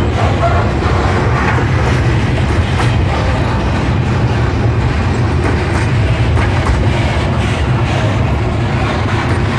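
Freight train's sliding-wall covered wagons rolling slowly past: a steady rumble of steel wheels on the rails, with scattered clicks of the wheels over rail joints.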